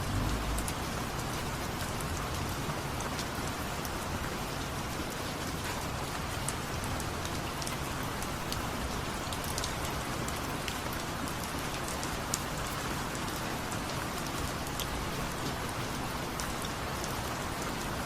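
Steady rain falling, an even hiss with scattered drop ticks, and a brief low thump at the very start.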